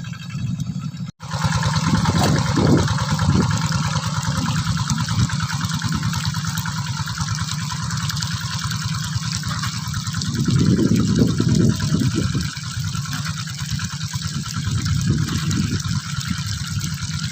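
Quick G3000 two-wheel hand tractor's diesel engine running steadily under plowing load, with a hissing noise over it. The sound cuts out briefly about a second in, then resumes, swelling louder around the middle.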